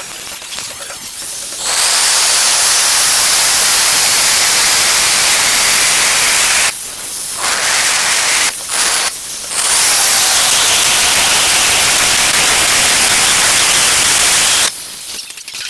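Angle grinder cutting through ceramic tile: a loud, harsh, gritty noise with a high whine over it. It starts about a second and a half in, eases off briefly twice around the middle, and stops near the end.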